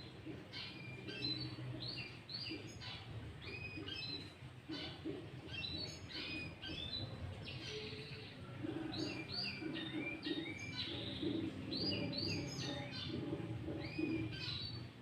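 Sooty-headed bulbul singing: short, quick whistled phrases repeated one after another. From about halfway a low pulsing sound runs underneath.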